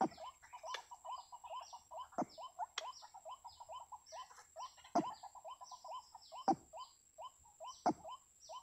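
White-breasted waterhens calling: a fast, continuous run of short repeated notes, with a louder, deeper call every second or two and thin high chirps above.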